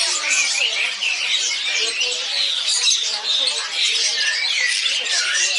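A loud, dense chorus of many caged birds chirping and squawking at once, short overlapping calls jostling with no pause.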